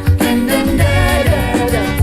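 Live calypso band playing, with melodic lines over a steady, pulsing bass.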